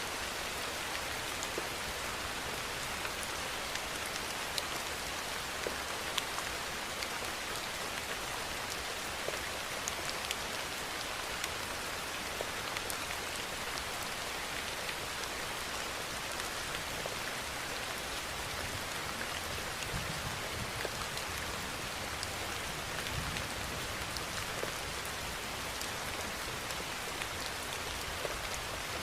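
Steady rainfall: an even hiss of rain with many separate drops ticking on a hard surface.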